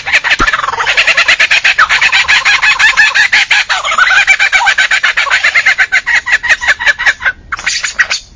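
A bird calling loudly in a fast, rattling run of short notes, about ten a second, for some seven seconds, then a brief pause and a few quick downward-sweeping notes near the end.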